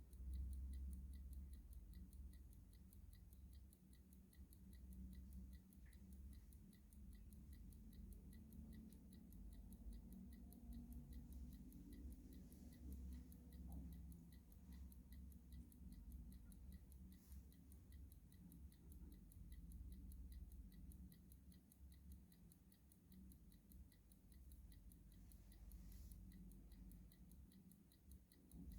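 Clock ticking faintly at an even, steady pace, over a low background rumble.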